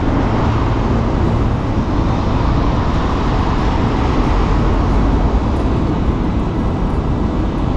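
Steady wind and road noise from cycling along a city street, a constant loud rush heaviest in the low end, with traffic around.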